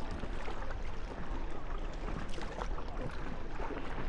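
Water splashing and lapping around a sea canoe being paddled, an irregular, steady wash of small splashes.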